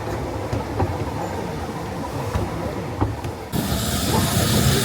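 Narrow-gauge heritage train running along the track: a low rumble with occasional short clicks from the wheels. About three and a half seconds in, the sound abruptly turns to a louder, brighter hiss.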